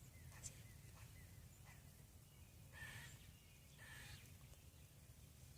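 Unidentified bird giving faint, short barking calls, twice about a second apart.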